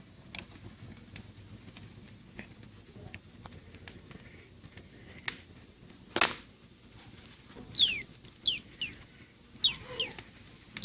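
Fire crackling with scattered sharp pops, one loud pop about six seconds in. From about eight seconds in, a bird gives several quick, high chirps that fall in pitch.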